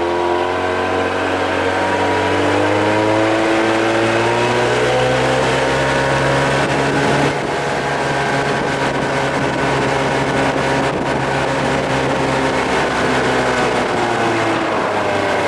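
Evinrude 25-30 hp two-stroke outboard running at speed under load, its pitch climbing over the first few seconds, then holding steady and easing slightly near the end, over a rush of wind and water noise.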